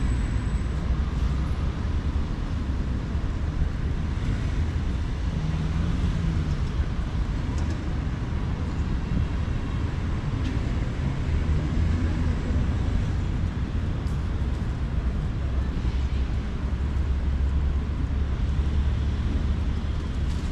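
Steady city ambience dominated by a continuous low engine rumble, with a faint haze of distant activity above it.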